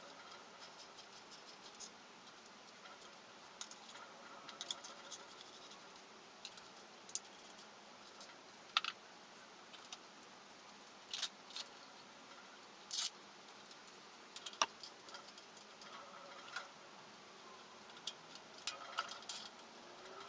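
Irregular light metallic clicks and clinks from tools or parts being handled, with a few sharper knocks.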